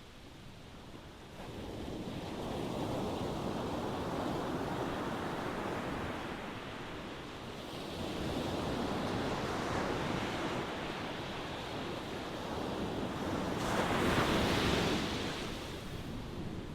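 Ocean waves breaking and washing in, one surge after another, with the biggest wave breaking near the end.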